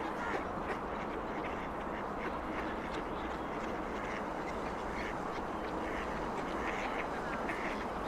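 A group of ducks quacking, with many short calls close together, over the steady hum of heavy traffic on a nearby avenue.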